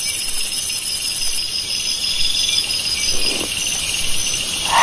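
Night-time rainforest insect chorus: crickets and other insects trilling steadily in several high-pitched layers, one of them pulsing about twice a second. The highest buzzing layer cuts off about a second and a half in.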